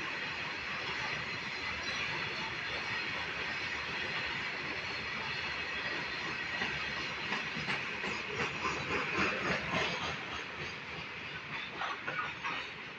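A passing train rumbling on the rails, with a run of wheel clicks over rail joints in the second half that fades near the end.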